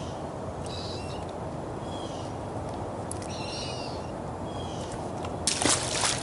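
Birds calling in short, high, repeated calls about once a second over a steady low background hiss. Near the end comes a brief loud rush of noise, the loudest sound.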